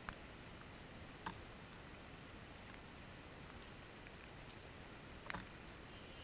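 Light rain on a window pane: a faint steady hiss with a few separate drops striking sharply, one just at the start, one about a second in and a double one near the end.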